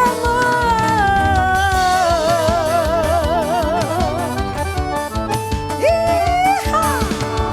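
Forró band music with a woman's voice holding one long sung note, its vibrato widening as it goes, then bending upward near the end, over the band's steady rhythm.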